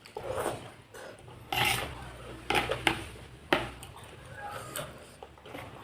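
Spoon clinking against a bowl several times, with eating noises in between.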